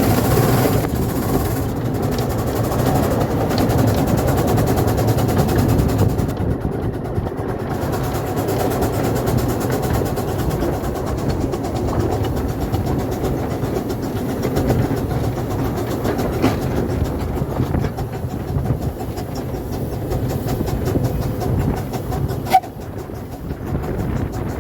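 Light-railway locomotive No. 4 Norfolk Pioneer running with its train: a steady rumble with rapid clicking from the wheels on the track. A single sharp knock near the end.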